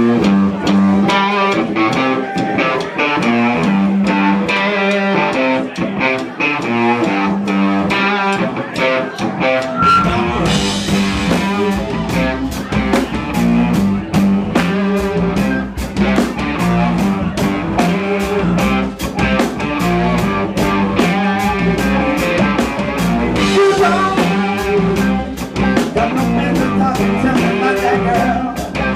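Live band playing guitar-led rock with a steady beat; the sound fills out with bass and cymbals about ten seconds in.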